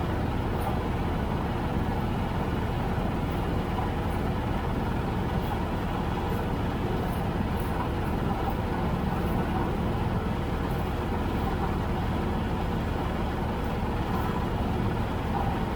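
Farm tractor engine running steadily under way, a constant low rumble with no change in speed.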